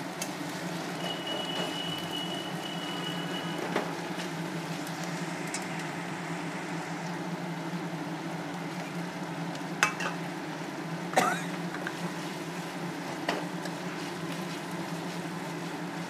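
Chopped tomato and onion-garlic-ginger paste sizzling steadily in hot mustard oil in a kadai, with a few sharp knocks of the stirring spoon against the pan. About a second in, a faint high steady tone sounds for a couple of seconds.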